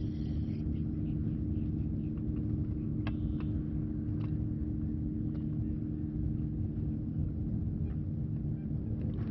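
A motor running steadily, a low rumble with a constant hum, and a few faint clicks about three and four seconds in.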